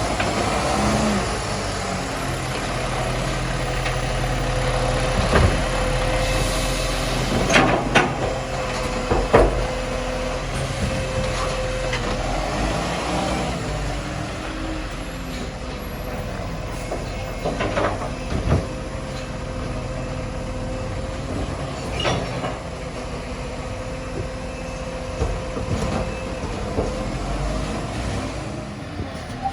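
Garbage truck's engine running, with a steady whine throughout and several sharp clanks and knocks.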